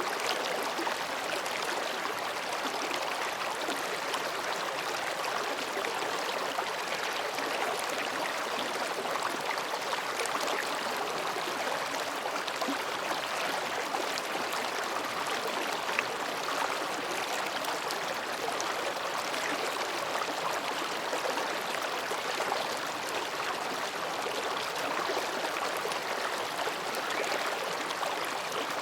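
A babbling mountain stream flowing over and between rocks, a steady rushing and gurgling of water that goes on without a break.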